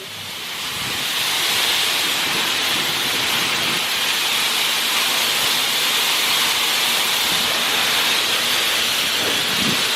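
Steady hiss of water spraying inside a PDQ Laserwash 4000 touchless car wash during its pre-soak, building up over the first second or so and then holding level while the gantry stands stalled in one place.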